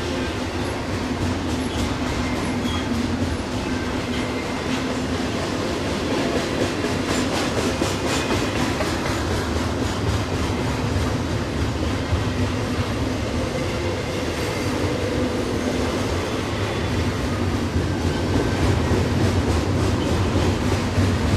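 Norfolk Southern double-stack container freight train rolling steadily past downgrade, its car wheels clacking over the rails.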